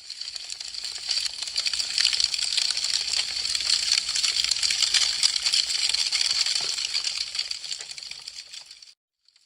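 Burning wood crackling: a dense stream of small snaps and pops over a steady hiss. It fades in over about the first second and fades out near the end.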